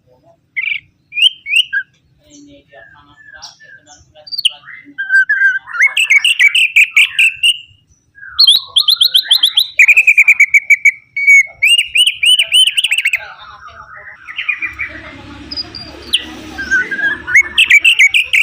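Opior (Javan grey-throated white-eye) singing loud, fast chattering phrases of quickly repeated notes and rapid trills, with short pauses between phrases. A low rustling noise joins in about fifteen seconds in.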